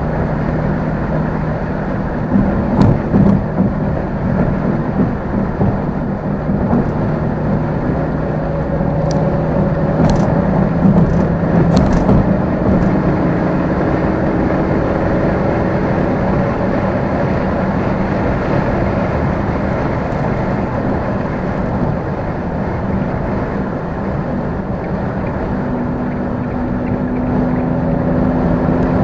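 Car engine and road noise from a car driving in traffic, a steady drone whose pitch steps up late on as it speeds up. A few brief sharp clicks come about 3 seconds in and again around 10 to 12 seconds in.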